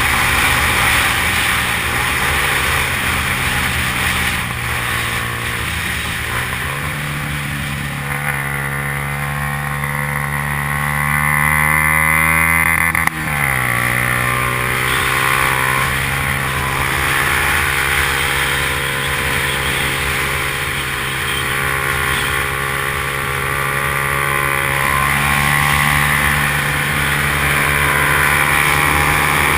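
Yamaha R15's single-cylinder four-stroke engine running under way, heard on board: its pitch climbs steadily for several seconds, drops sharply about halfway through, then holds fairly steady.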